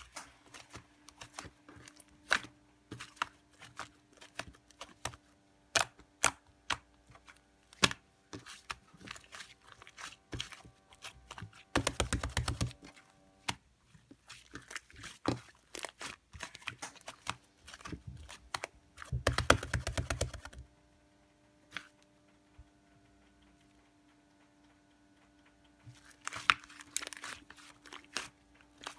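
Slime being squished and poked by hand, giving a run of sharp sticky clicks and pops. Two denser, louder crackling bursts come about twelve and nineteen seconds in, then a quieter stretch before more clicking near the end.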